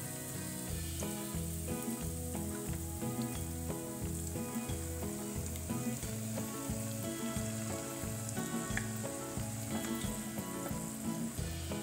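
Onions and whole spices sizzling in hot oil in a frying pan as marinated chicken is scraped in from a glass bowl with a wooden spatula and stirred. Soft background music plays underneath.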